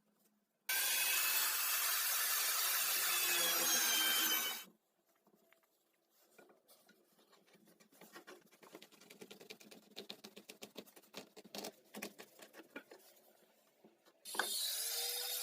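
A power tool running on wood for about four seconds and stopping, followed by quieter irregular scraping and rubbing strokes, with the power tool starting up again near the end.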